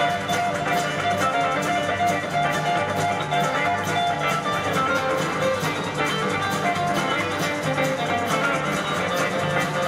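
Live band playing an instrumental break of a country-rock song, a guitar taking the lead with held notes over a steady beat.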